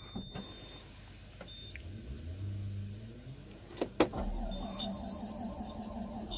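Cold diesel machine's key being cycled again to reheat the intake grid heater: sharp electrical clicks, a short rising whir of a small electric motor, then after another click about four seconds in, a low steady hum.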